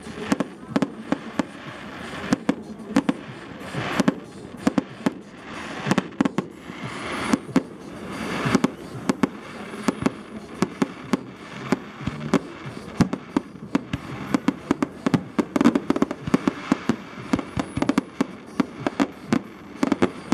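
Fireworks display: aerial shells bursting in a rapid, irregular series of sharp bangs, often several a second.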